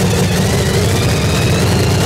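Funny car's V8 engine idling loud and steady during a pit warm-up, with a faint whine slowly rising in pitch.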